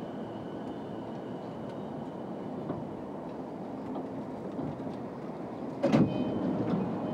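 Inside a JR East E233 series 5000 electric train: a steady hum with a faint high tone, then a sudden loud clunk about six seconds in, after which the noise stays louder.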